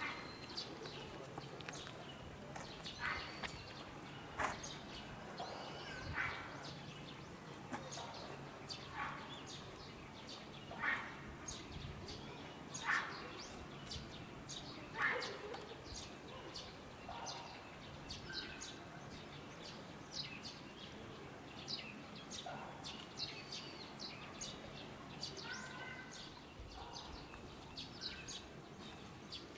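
Small birds chirping and calling on and off, with a few louder, short calls around the middle.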